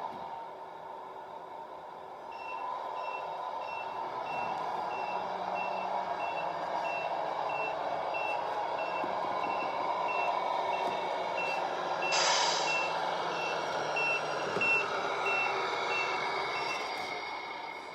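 Tamiya Scania RC truck's electronic sound unit playing a diesel engine running with a steady repeating reversing beep, about one and a half beeps a second. About twelve seconds in, a short burst of hiss like an air brake release.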